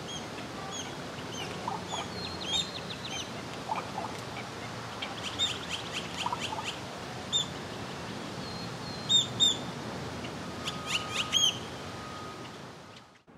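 Birds chirping: quick runs of short, high calls, with two louder calls about nine seconds in.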